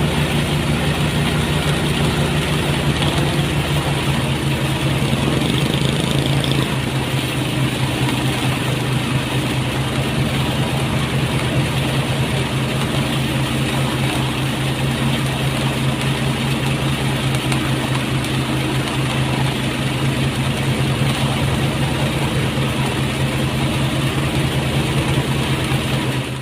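Motorised rice thresher running steadily under its small engine, with a constant mechanical drone and rattle as paddy is threshed.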